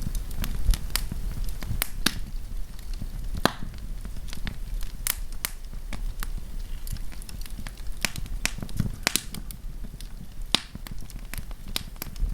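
Wood campfire crackling: irregular sharp pops and snaps, several a second at times, over a steady low rumble.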